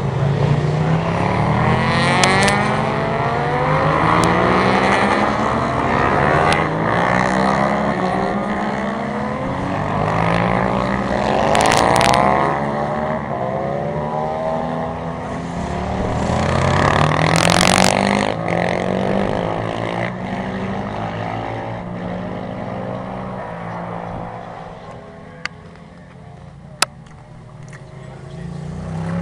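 Several racing motorcycles passing on a circuit, engines rising in pitch again and again as they accelerate through the gears, swelling loudest a couple of times and then fading away near the end. Two sharp clicks sound in the quieter stretch near the end.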